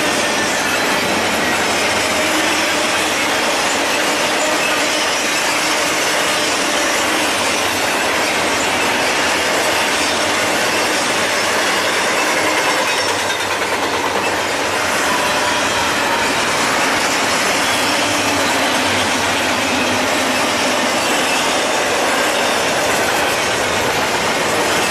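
Double-stack intermodal freight train rolling past close by: a steady, loud noise of steel wheels running on the rails as the loaded container well cars go by.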